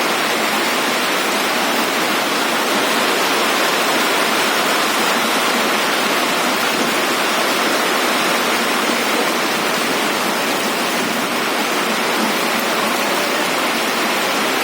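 Heavy rain falling, a steady, even hiss with no change in strength.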